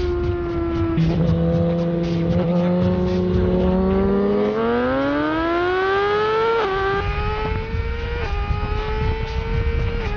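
Superbike engine accelerating hard, revs climbing and dropping abruptly at each upshift, about three gear changes in the second half. A second engine note holds steady early on and then rises along with it.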